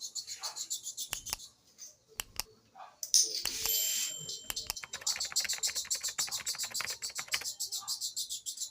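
Steel clipper blade rubbed back and forth on a sharpening stone in quick, even scraping strokes, about five a second, as its flat inner face is lapped. About a second and a half in, the strokes stop for a moment with a few sharp knocks and a louder scrape, then pick up again.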